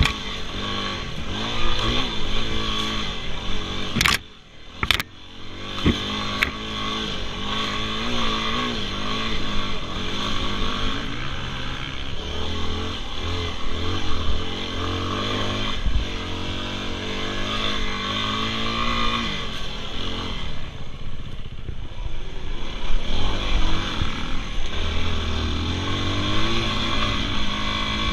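Dirt bike engine running and revving up and down as the bike is ridden hard on the throttle. There is a brief drop in engine sound with a couple of sharp clicks about four seconds in.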